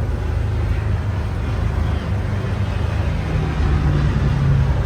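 Low-flying crop-dusting airplane passing close overhead, its engine getting a little louder in the second half, over the steady running of a vehicle engine.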